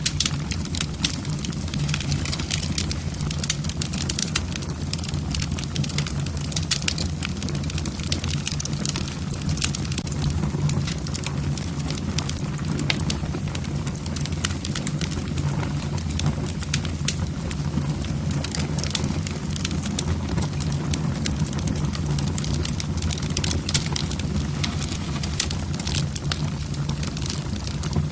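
Wood fire burning in a fireplace, the logs crackling with frequent sharp pops over a steady low rumble.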